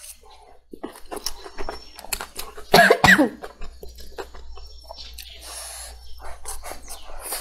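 Close-miked chewing and lip smacking as chicken is bitten and chewed, many small wet clicks. About three seconds in there is a loud, short sound in two quick bursts with falling pitch.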